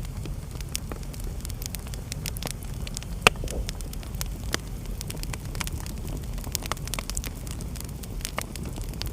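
Wood fire in a fireplace burning steadily, with irregular crackles over a low rumble of flame and one loud pop about three seconds in.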